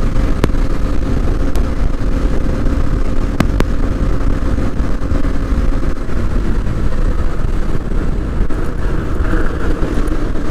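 KTM Duke 125's single-cylinder engine running steadily as the motorcycle rides along, with a heavy, steady rumble of wind on the microphone. A few faint clicks sound early on.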